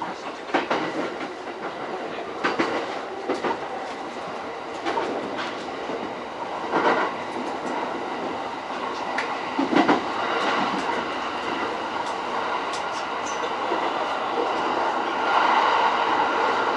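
E231-series electric commuter train running along the line, heard from inside the car. Its wheels clack over rail joints in irregular knocks against a steady running noise, which grows a little louder near the end.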